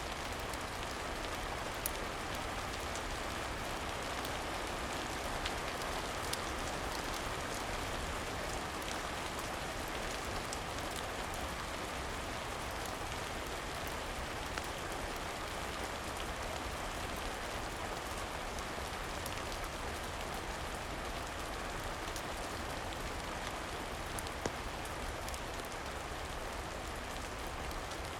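Steady rain falling and pattering, with a few sharp isolated pops from a crackling wood fire.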